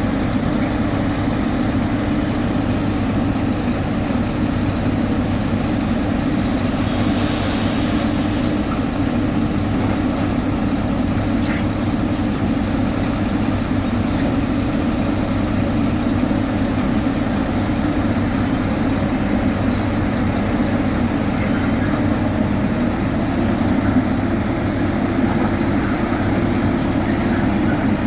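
Heavy diesel road-construction machinery running steadily, a constant engine drone with no breaks.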